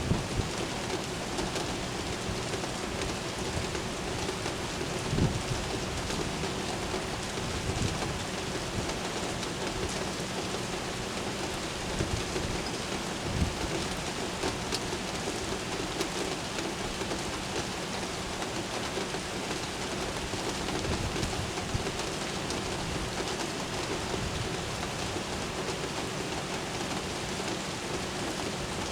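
Steady rain falling and pattering on surfaces, with a faint steady hum underneath and a few brief low thumps scattered through.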